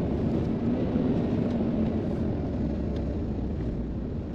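Road and engine noise heard inside a moving car's cabin: a steady low rumble that eases slightly toward the end.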